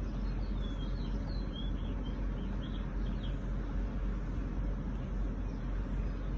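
Birds chirping over a steady low rumble. The short high chirps come in the first three seconds or so.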